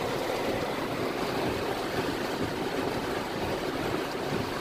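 Heavy rain falling on a car, heard from inside as a steady, even hiss.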